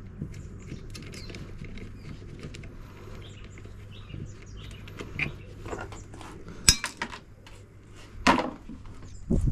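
Scattered small clicks and rattles of dishwasher parts being handled and sorted, with a sharp click a little before seven seconds in and a louder knock about a second later.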